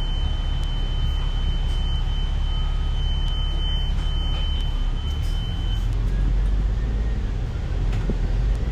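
Bus engine and road noise heard from inside the passenger cabin: a steady low rumble. A thin, steady high tone sounds over it and cuts off about six seconds in.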